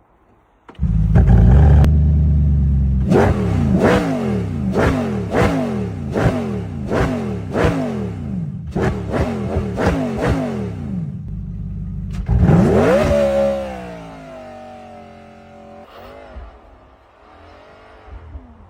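Bugatti Tourbillon's naturally aspirated V16 engine revving hard as the car is drifted, kicking in loudly about a second in. About eight sharp revs follow at roughly one a second, then a long rev that falls slowly away, after which the engine is quieter, with a few fainter revs near the end.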